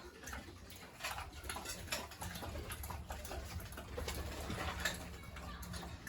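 Pigs grunting, with scattered clicks and knocks over a steady low hum.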